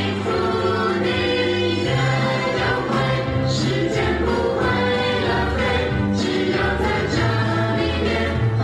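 A song from a children's musical: music with a group of voices singing.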